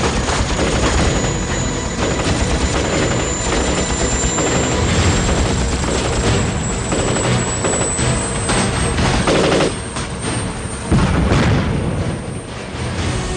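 Sustained rapid gunfire from automatic weapons with booms mixed in, a sharp jump in loudness about eleven seconds in.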